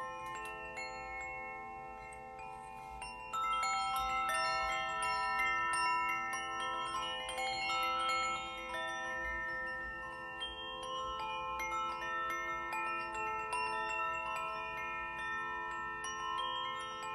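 Struck metal chimes ringing, many notes of different pitch overlapping with long sustain. The playing grows louder about three seconds in.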